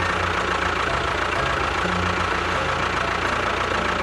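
Steady engine-like running sound with a low rumble that shifts a little in pitch now and then.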